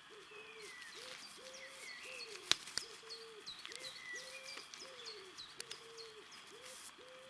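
A dove cooing over and over in a steady run of low notes, about two a second, with small birds chirping higher up. Two sharp clicks come about two and a half seconds in.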